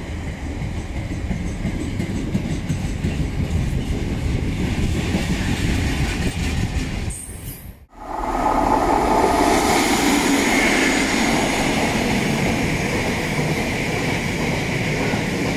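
Freight wagons rolling past at speed: first a train of tank container wagons with a steady low rumble of wheels on rail. After a sudden break about eight seconds in, a second, louder train of bogie hopper wagons rolls by, with a steady higher-pitched ring over the wheel noise.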